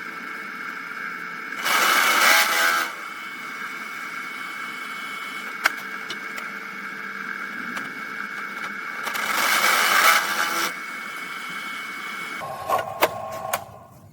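A small motor runs with a steady whine, rising twice into louder hissing surges, about two seconds in and again about nine seconds in. Near the end it changes to a brief clicking sound and stops.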